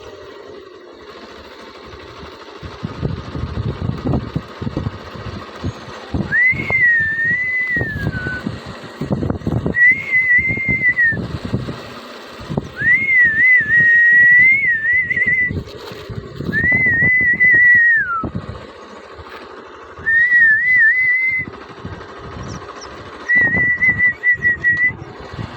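A person whistling a run of short, wavering phrases, about six of them, each a second or two long with short gaps between, over a low rumbling noise.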